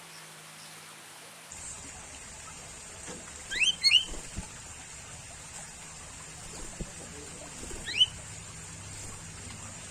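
Sooty-headed bulbul calling: a quick cluster of short rising whistled notes about three and a half seconds in, then a single rising note near eight seconds, over a steady high hiss.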